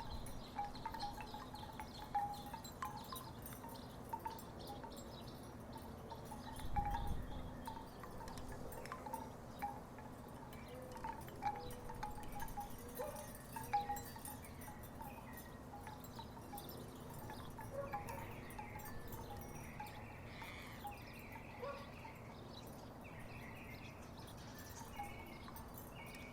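Wooden tiki wind chimes knocking irregularly in a breeze, with hollow wooden clacks that thin out in the second half. A brief low rumble comes about seven seconds in.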